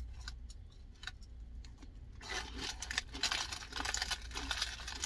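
Close, irregular crunching and clicking of someone chewing food. The clicks are sparse at first and grow busier about two seconds in, over a low steady hum.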